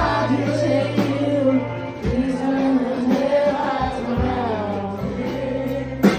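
A band playing live with a woman singing held, flowing vocal lines over a steady bass.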